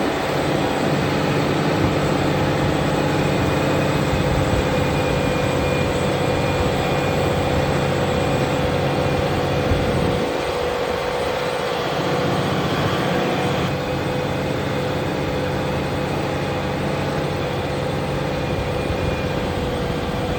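Fendt tractor's diesel engine running steadily under load with a strong steady hum; the low rumble changes briefly about halfway through.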